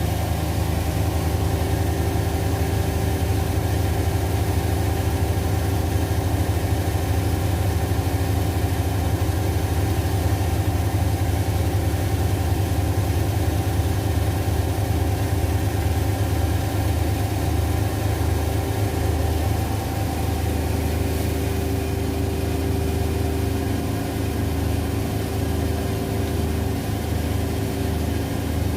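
Two front-loading washing machines, an LG Centum and a Zanussi, spinning their drums at a steady high speed, with a constant low hum and a steady motor whine.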